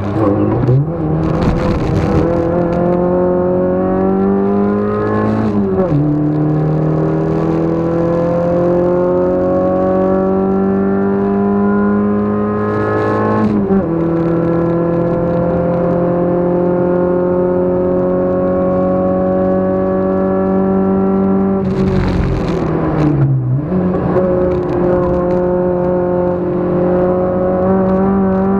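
A race-prepared car's engine heard from inside the cabin while lapping a circuit under throttle. The engine note climbs and falls back at gear changes about 6 and 13½ seconds in, runs steady for a while, then dips sharply around 23 seconds as the driver slows and picks up again, with brief hissing rushes of noise now and then.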